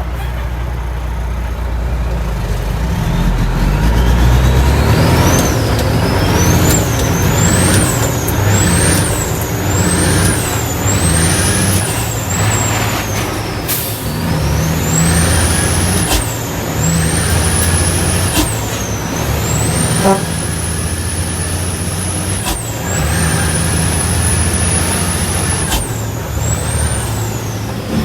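Heavy diesel dump truck's engine pulling through the gears. A high turbo whistle climbs with each gear and falls away at each shift, about once a second at first, then in longer pulls. A short sharp click comes at several of the shifts.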